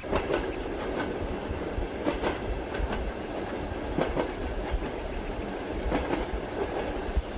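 Steady rumble of a moving train heard from inside a passenger car, with the clack of the wheels over rail joints every second or two. A light patter of rain runs underneath.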